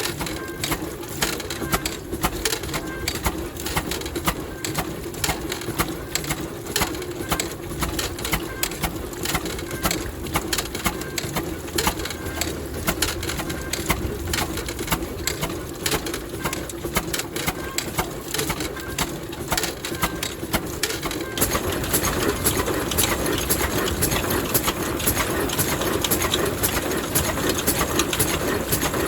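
Vintage Ruston stationary diesel engine running with a steady beat of sharp knocks. About two-thirds of the way through, the sound turns louder and denser, with a rushing noise over the beat.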